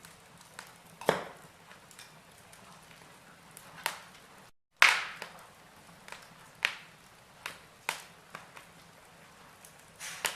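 Log fire in a fireplace crackling: burning wood giving irregular sharp pops, roughly one a second, over a faint steady hiss. The sound cuts out completely for a moment just before the loudest pop, about halfway through.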